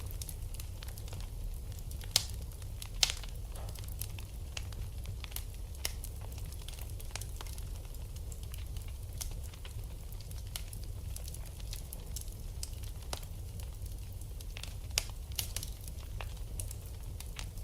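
Wood fire burning in a fireplace, crackling with scattered small snaps and a few sharper pops about two and three seconds in and again near fifteen seconds, over a steady low rumble.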